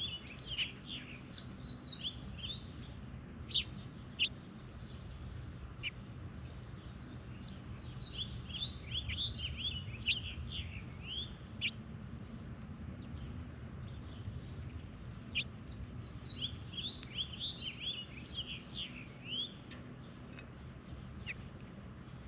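Birds chirping in three bursts of rapid, short chirps several seconds apart, with a few sharp clicks in between.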